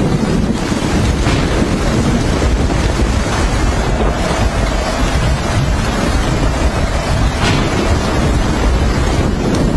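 Heavy rain pouring, with wind buffeting the microphone: a loud, steady rush.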